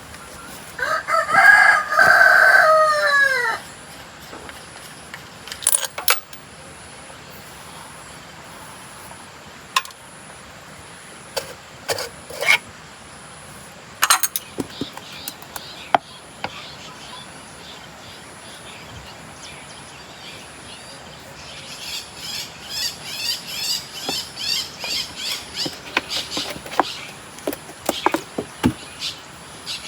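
A rooster crowing once, loud, its call falling off at the end. Scattered sharp clicks and taps follow, then a quick run of short repeated high sounds near the end.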